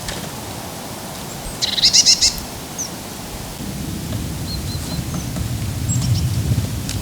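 Woodland birds calling: a short burst of rapid, high chattering notes about two seconds in, then a few faint short notes. A low rumble builds from about halfway through.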